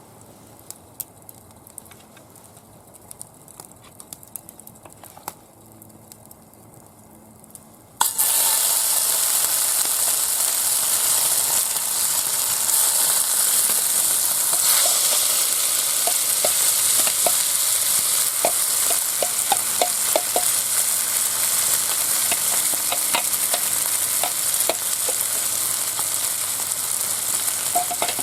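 Faint scattered crackles, then about eight seconds in, food goes into a hot iron frying pan and starts sizzling loudly. The sizzling keeps on steadily, with scattered pops; the dish is chicken breast being cooked in the pan.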